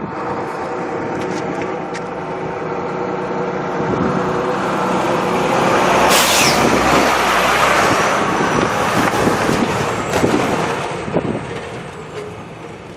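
Jet airliner passing by, its engine roar swelling to a peak about halfway through and fading near the end, with a faint high turbine whine.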